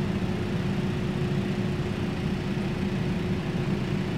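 Steady low mechanical hum with a faint constant tone above it, unchanging throughout: the background drone of a large indoor warehouse showroom.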